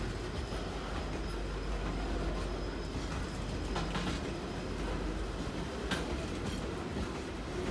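Quarry train's freight hopper wagons rolling past: a steady rumble of steel wheels on rail, with sharp clicks about 4 and 6 seconds in.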